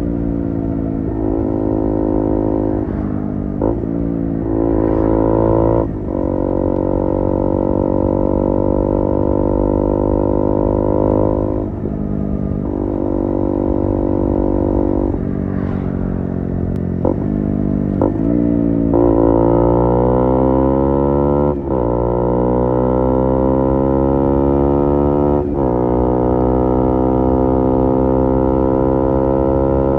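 KTM Duke 125 single-cylinder four-stroke engine running loudly through an IXIL IXRACE MK2 aftermarket exhaust. The revs are held steady for stretches, with several abrupt breaks and a long climb in pitch partway through.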